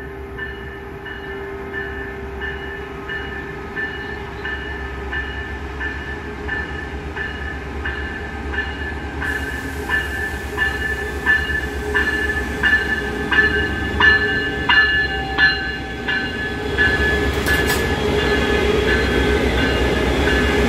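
Siemens Charger diesel locomotive of a COASTER commuter train pulling into the platform with its bell ringing steadily, about one strike every two-thirds of a second. The bell grows loudest as the locomotive draws level. The rumble and rail noise of the train passing close by then take over.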